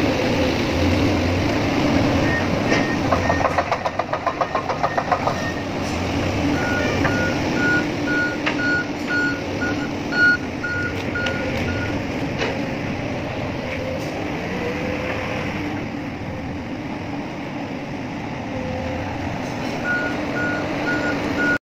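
Heavy machinery engine running steadily while a backup alarm beeps in quick, evenly spaced pulses. There is a fast rattle a few seconds in and a single clank about ten seconds in.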